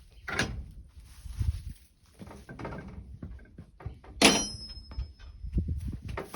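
Scattered thumps and knocks, with one sharp metallic clang about four seconds in that rings briefly.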